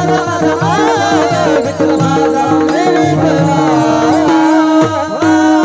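Devotional Varkari bhajan music: voices singing a gliding melody over steady held drone tones and a fast, even drum beat.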